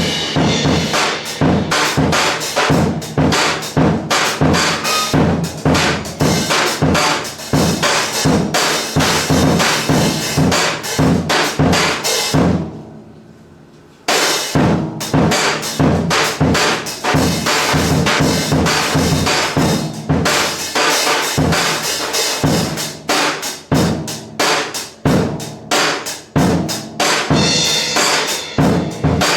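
Live swing big band playing loud, with the drum kit prominent: bass drum, snare and cymbals over the horns. About twelve seconds in, the sound dies away for a moment, and the band comes back in sharply about two seconds later.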